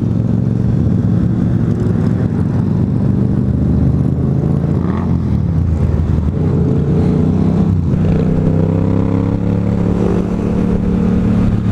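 Yamaha FZ-07 parallel-twin motorcycle engine running at freeway cruising speed, heard from the bike with wind noise; the revs shift a little partway through.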